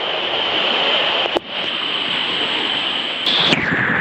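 Steady, loud rushing noise of water and wind, with a brief dropout about a second and a half in and a sudden change in tone near the end.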